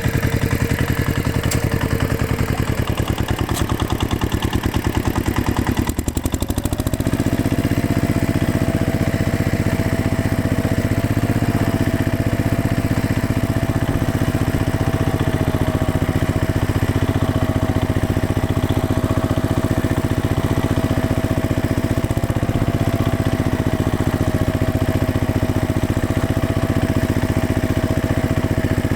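Engine sound running steadily as a fast, even pulse; about seven seconds in it shifts to a slightly different, steady pitch and holds there.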